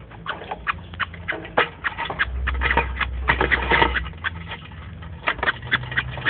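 Small cage birds in an aviary, canaries and society finches, giving many short, quick chirps and calls, over a steady low rumble that grows louder for a couple of seconds in the middle.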